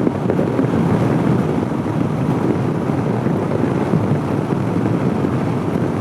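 Steady rush of wind buffeting a motorcyclist's microphone while riding on the highway, with no speech over it.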